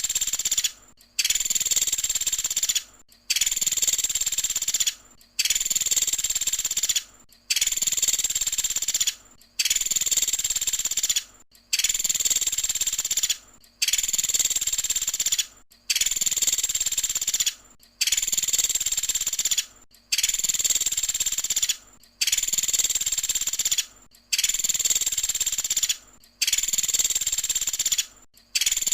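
Recorded song of a pelatuk sampit, a small Indonesian woodpecker-type bird kept by songbird fans, in its rapid 'tembakan' phrase. It is a high-pitched phrase of under two seconds, repeated about every two seconds with short gaps between.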